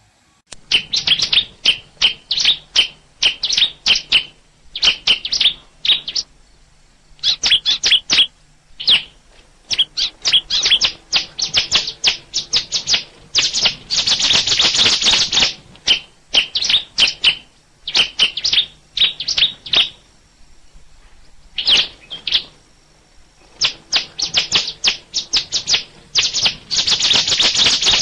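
Songbird chirping: rapid runs of short, high notes in phrases a few seconds long, with brief pauses between them.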